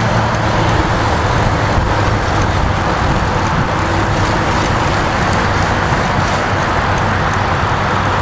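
Steady road traffic noise heard from a moving bicycle, with a motor vehicle's low engine hum fading about a second in.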